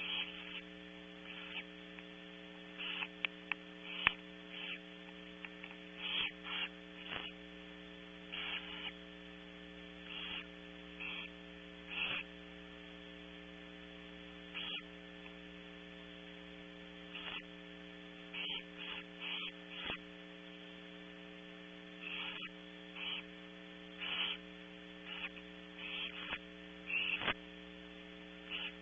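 Barn owls in a nest box giving short hissing rasps, repeated irregularly every second or two, with a few sharp clicks. They sound over a steady electrical hum from the camera setup.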